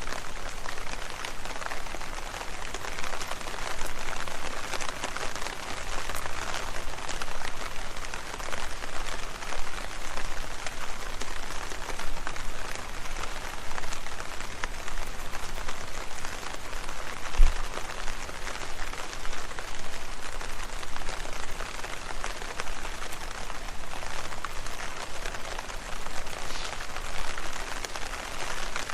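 Steady rain falling on leaves: a dense, even hiss of many small drop ticks. A single short low thump stands out about two-thirds of the way through.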